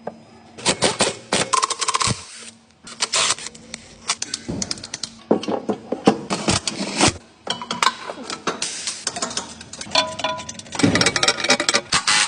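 Metal hand tools and bolts clicking and clanking in quick, irregular clusters while an engine mount is being replaced.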